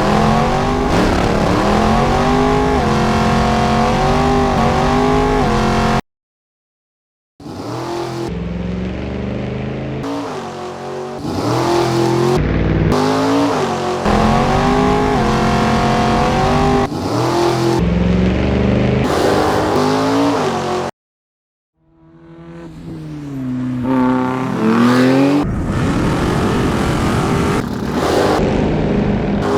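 Two-stroke petrol engine of a 1/5-scale short course RC truck revving up and down as it is driven hard, cutting out abruptly twice.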